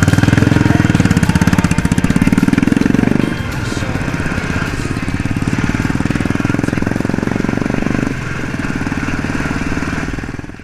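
Motorcycle engine running with a rapid, even exhaust beat. It is loudest for about the first three seconds, then drops back to a lower level.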